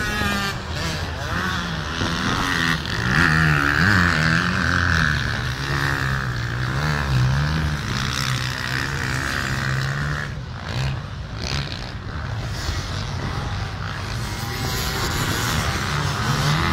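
Racing motorcycle engines revving, several at once, with their pitch rising and falling as the bikes accelerate and pass.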